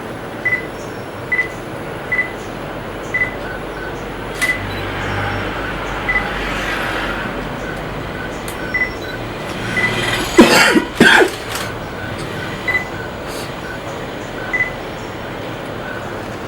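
Birds calling with short, clear single notes at two pitches, repeated at irregular intervals, and two loud harsh calls or flutters about ten seconds in.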